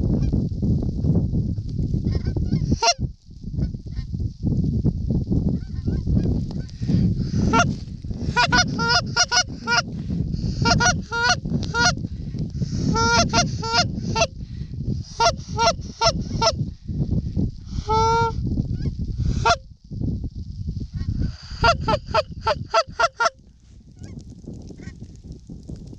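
Canada goose honks in quick runs of short calls, over a steady low rumble of wind on the microphone.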